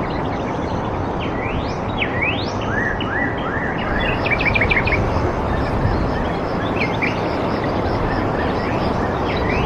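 Several birds calling over a steady rushing background noise: a couple of rising whistled sweeps in the first few seconds, strings of short repeated notes, and a quick run of notes around the middle.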